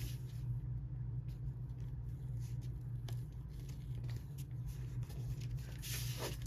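Paper being folded and creased by hand: soft rustles and light taps from the accordion-folded paper strip, over a steady low hum.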